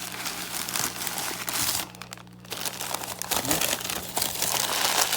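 Packing material crinkling and rustling as it is unwrapped by hand, with a short lull about two seconds in.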